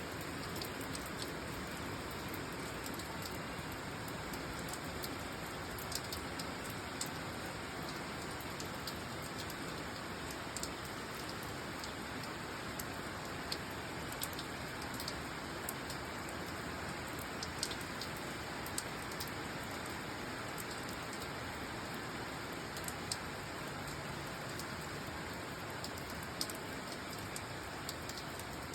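Steady rain falling: an even hiss, with occasional sharp taps of single drops landing.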